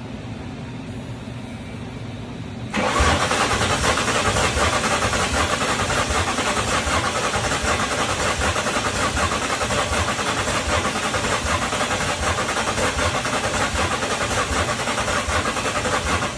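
Starter cranking the 1999 Mustang GT's 4.6-litre V8, starting about three seconds in and turning the engine over steadily for roughly thirteen seconds without it firing. The engine spins but won't start, which the owner later puts down to an unplugged crank sensor.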